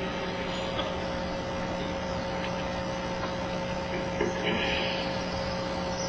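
Pause in the prayer recitation: steady hum and hiss from the mosque's sound system and large hall, with a brief faint noise about four and a half seconds in.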